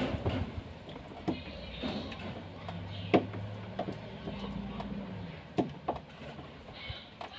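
Scattered sharp clicks and taps of a refrigerator's defrost timer and its wire connector being handled and fitted back in place. A low steady hum sounds in the middle and stops about two seconds before the end.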